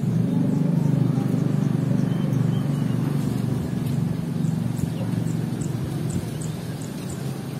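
A loud low rumbling noise that swells at the start and slowly fades. Faint short high chirps come through from the middle of it.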